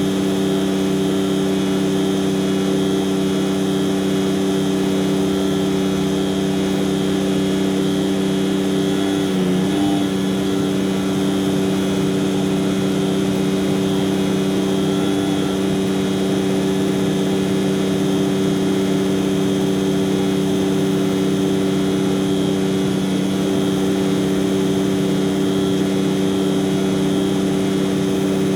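Heavy truck's diesel engine running at a steady, unchanging speed, a constant low hum with a brief wobble about ten seconds in.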